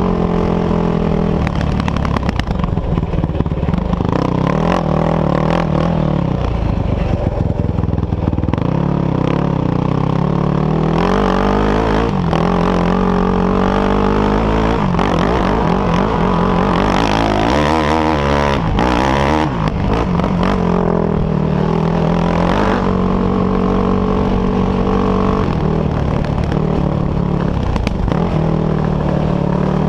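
Off-road engines of a sport quad and dirt bikes revving up and easing off as they ride and jump, the pitch climbing and dropping again and again; around the middle more than one engine is heard at once at different pitches.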